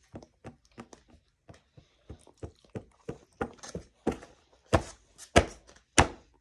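A series of sharp knocks on a hard surface, irregular at about two to three a second, getting louder over the last few seconds.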